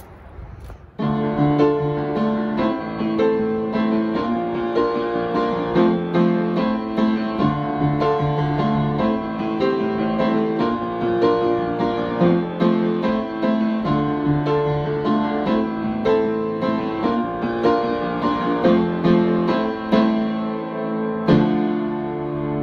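Piano music in an even rhythm, starting about a second in.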